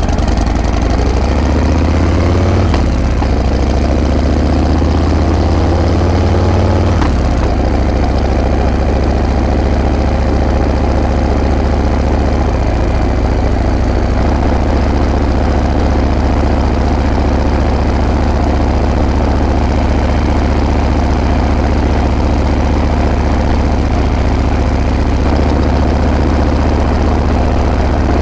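Harley-Davidson Breakout's V-twin engine running through its exhaust. Its pitch climbs slowly over the first seven seconds or so, then settles into a steady, even note.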